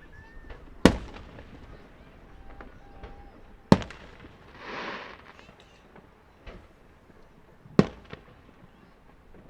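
Fireworks shells bursting: three sharp bangs about three to four seconds apart, with a short hissing burst between the second and third.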